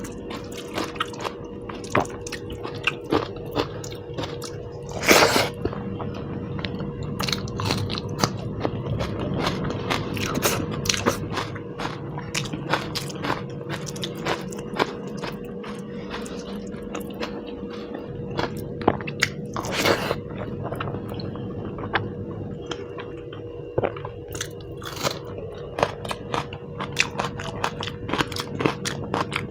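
Close-miked eating with no talking: steady chewing and biting with many wet mouth clicks and smacks, and two louder crunchy bursts about five and twenty seconds in. A faint steady hum runs underneath.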